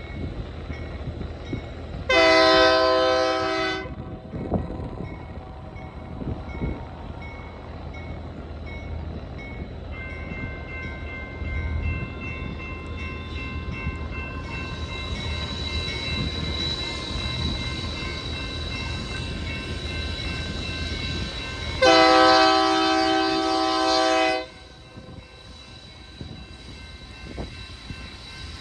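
Locomotive air horn sounding two blasts, a short one about two seconds in and a longer one near the end, over the steady low rumble of an approaching coal train.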